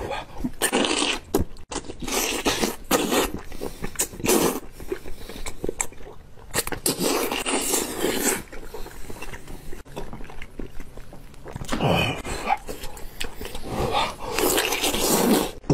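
Close-miked mouth sounds of a man biting, gnawing and chewing on braised lamb trotters, an irregular run of short sharp crunches and smacks.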